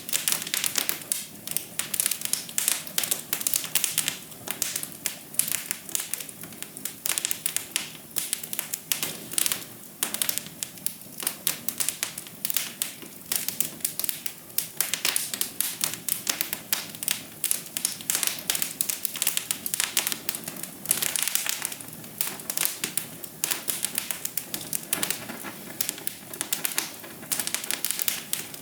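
Wood fire crackling in a fireplace: a dense, irregular stream of sharp pops and snaps over a soft hiss.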